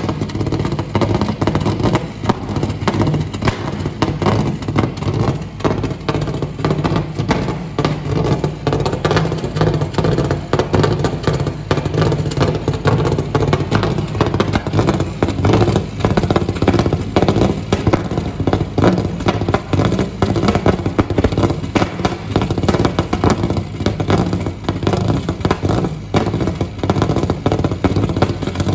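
Subaru Impreza N12 rally car's turbocharged flat-four engine running, heard at the exhaust: a steady low note laced with constant rapid crackling pops.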